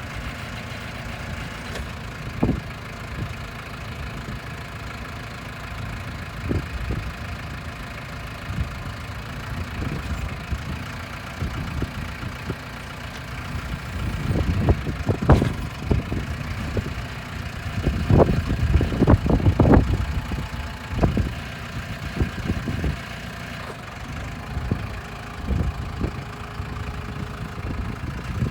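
2009 New Holland T2330 Boomer compact tractor's diesel engine idling steadily, with irregular low thumps and bumps that crowd together in the middle.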